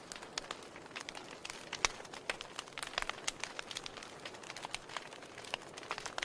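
Wood fire in a fireplace crackling: irregular sharp snaps and pops over a soft hiss. The loudest snap comes a little under two seconds in.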